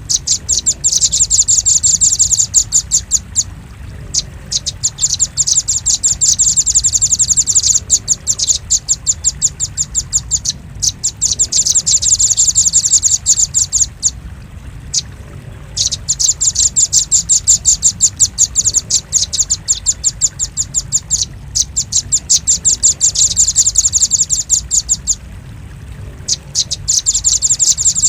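Velvet-fronted nuthatch calls used as a bird-trapping lure: long runs of rapid, sharp, high chips, each run lasting several seconds, broken by short pauses.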